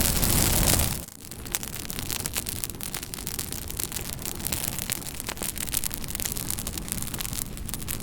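Campfire crackling, wood burning with many sharp pops and snaps over a soft hiss. About a second in, a louder rushing hiss cuts off suddenly, leaving the quieter crackle.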